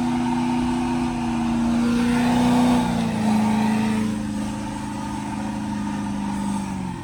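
Truck engine held at high, steady revs. Its pitch steps down slightly about three seconds in and holds there.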